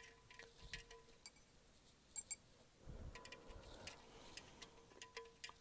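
Faint, irregular metallic clicks and ticks from a wrench as the 17 mm oil drain bolt is screwed back in and tightened, with two sharper clicks a little after two seconds in and a dull low thump about three seconds in.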